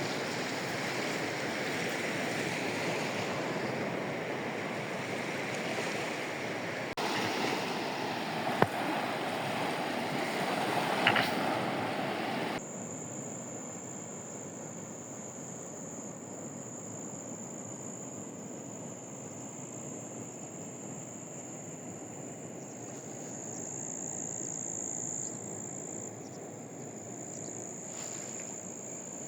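Sea waves washing on the shore, with a couple of sharp clicks. About halfway through it gives way abruptly to insects trilling, one steady high-pitched tone over a quiet background.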